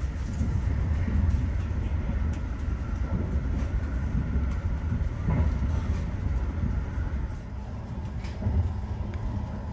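Kintetsu Hinotori limited express train running, heard from inside the passenger cabin: a steady low rumble with a few faint clicks.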